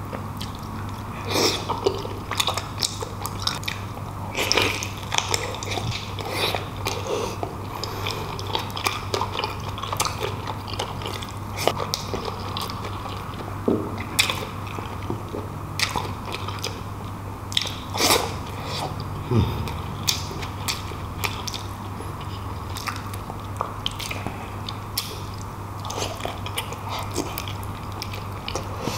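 Close-miked eating of beef bulalo: wet chewing and lip-smacking of soft beef shank meat and tendon, with irregular clicks and smacks, over a steady low hum.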